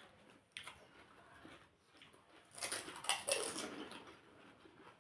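Quiet mouth sounds of people eating puchka (pani puri), with a short sharp sound about half a second in and a louder stretch of eating noise about two and a half seconds in.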